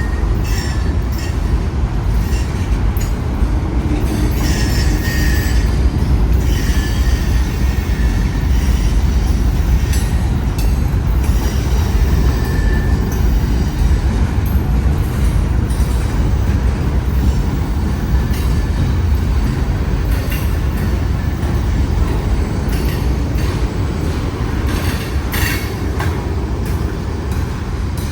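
Freight train rolling slowly past: a steady deep rumble of the cars, with brief high wheel squeals and scattered clicks of wheels over the rails.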